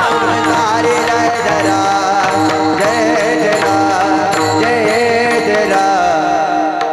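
Warkari devotional singing: a wavering sung melody over a steady held drone, with mridang drum strokes, all stopping abruptly near the end.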